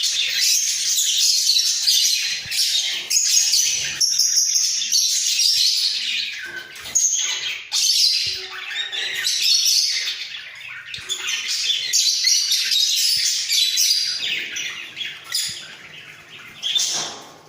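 A pair of budgerigars warbling and chattering in a fast, continuous stream of high chirps and squawks. The chatter thins out over the last few seconds, with one more burst just before the end.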